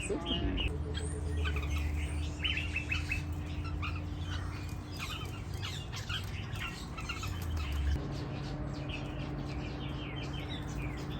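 Many birds chirping and calling in short, scattered notes, over a steady low hum that cuts off about eight seconds in.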